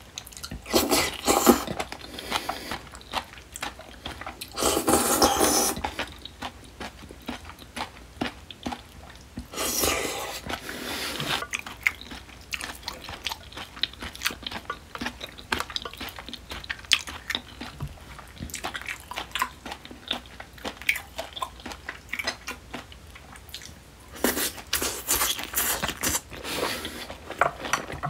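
Close-miked eating of smoked duck and spicy seasoned oysters: steady chewing and wet mouth clicks. Louder, noisier bites come about a second in, around five seconds, around ten seconds, and again from about twenty-four to twenty-seven seconds.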